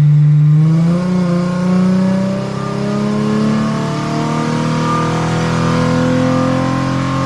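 Nissan 350Z's VQ35 V6 at full throttle on a chassis dyno with nitrous spraying, its exhaust note climbing slowly and steadily in pitch as the revs rise through the pull.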